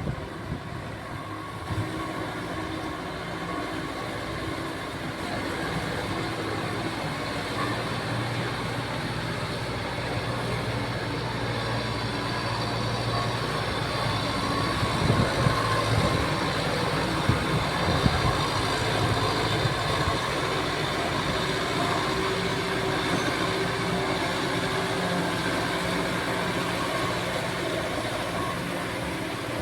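Kubota tractor's diesel engine running steadily at work, with a few louder knocks around the middle.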